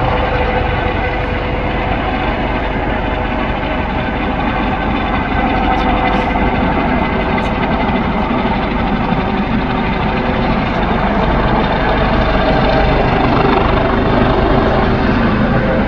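Firefighting helicopter running steadily, its turbine whine holding several steady tones over the rotor and engine noise.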